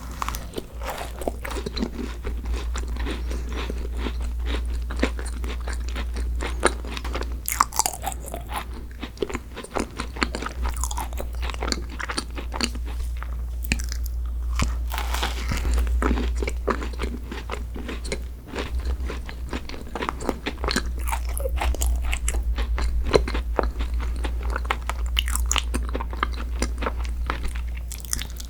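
Close-miked eating sounds: a person biting into and chewing crunchy desserts, with many quick irregular crunches and clicks, over a steady low hum.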